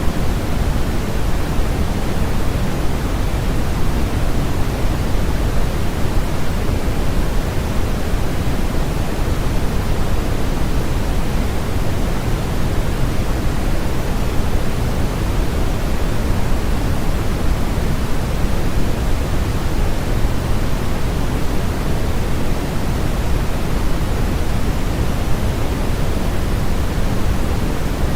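Steady synthetic sleep-aid noise, an even hiss that does not change. It is heavier in the low end than in the treble, closer to pink noise than to flat white noise.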